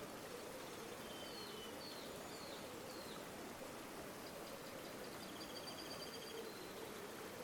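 River water flowing steadily, with small birds calling over it: a few short chirps in the first three seconds and a rapid high trill a little past the middle.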